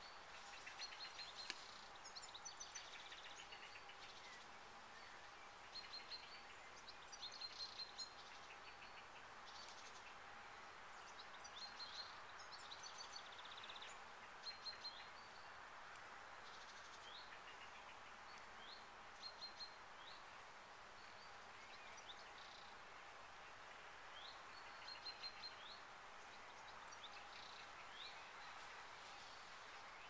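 Songbirds chirping, short high calls and quick repeated phrases every few seconds over a faint steady background hiss.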